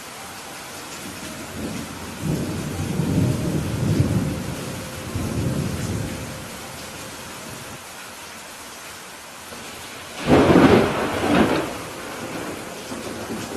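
Steady rain with thunder: a low rumble starting about two seconds in and lasting about four seconds, then a louder, sharper thunderclap about ten seconds in that fades over a couple of seconds.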